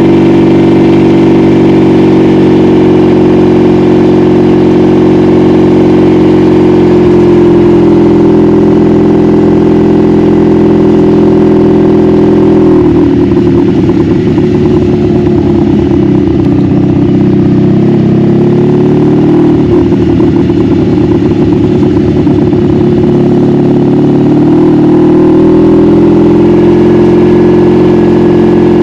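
A 1986 Honda Magna V45's 750 cc V4 engine running at a steady pitch while riding. About halfway through, it drops off the throttle: the pitch falls and the note turns rough and uneven. Near the end it climbs back to a steady pitch.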